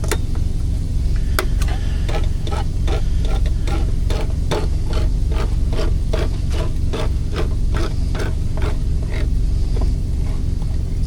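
A quick run of light knocks, about three a second, from cooking utensils being worked by hand, over the steady low hum of the semi truck's APU.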